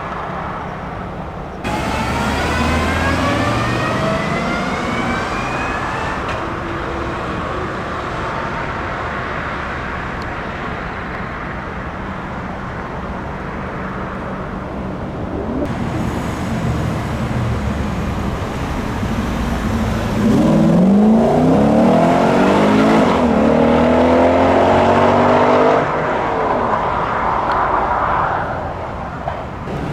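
Car engines revving and accelerating, their exhaust note rising in pitch. The loudest is a hard rev that climbs for several seconds about two-thirds of the way through and cuts off abruptly.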